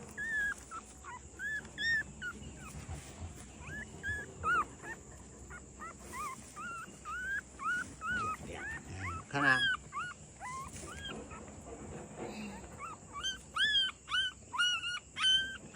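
Dogs whimpering: a long series of short, high, rising-and-falling whines, coming faster and higher near the end.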